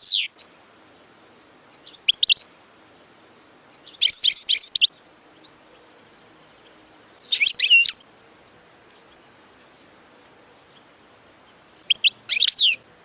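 European goldfinch singing in short twittering bursts of rapid, high, gliding notes. There are about five phrases, each under a second long, separated by pauses of one to four seconds.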